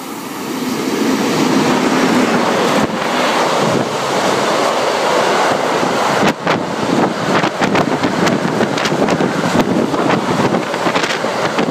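Vossloh G2000 diesel locomotive running through at speed with a car-carrier freight train. A loud rush builds over the first two seconds as the locomotive arrives, then the wagons pass with a steady rushing clatter. From about halfway there are irregular gusts of wind buffeting the microphone.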